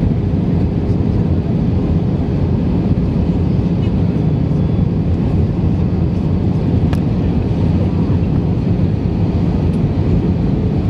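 Steady cabin roar of an Airbus A319-111 in flight, heard from a passenger seat: engine and airflow noise as a dense low rumble with a faint thin tone in it.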